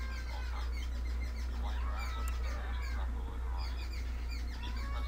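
Birds calling in the background: many short chirps and a few longer arching calls. A steady low hum runs underneath.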